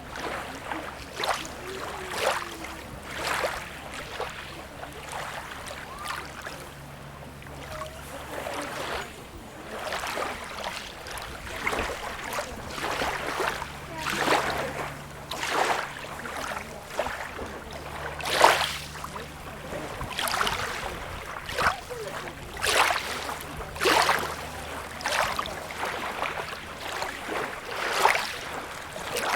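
Small waves lapping and splashing at the water's edge of a beach: short, irregular splashes every second or two over a steady low rumble.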